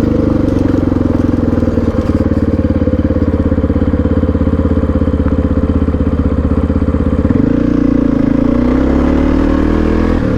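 Honda XR650R's single-cylinder four-stroke engine running steadily with an even firing pulse, its note changing about seven seconds in.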